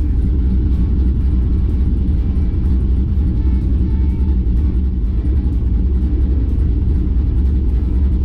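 Drag race car's engine idling steadily, a deep even rumble.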